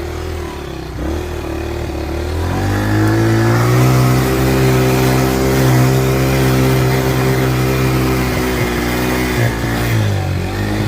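Engine of a small ride-on vehicle, running low at first, then rising in pitch between two and three seconds in as it picks up speed. It holds a steady pitch for several seconds and drops back near the end as it slows.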